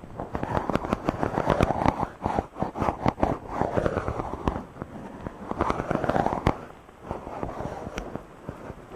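A microphone being rubbed directly, giving dense crackling and scratching with swelling, sweeping rustles, briefly dipping a little after two-thirds of the way in.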